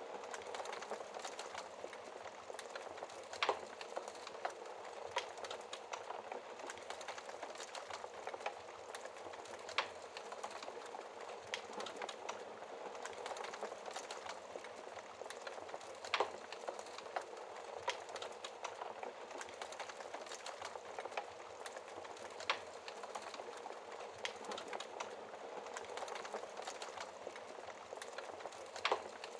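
Wood fire burning with a steady hiss and irregular crackles and pops, a few louder snaps among many small ones.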